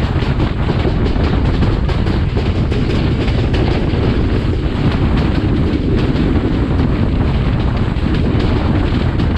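Class S13 diesel multiple unit running at speed: a loud, steady rumble of the train and its wheels on the rails.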